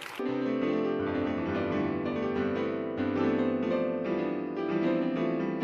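Piano music: a slow run of notes over held chords, cutting in suddenly just after the start.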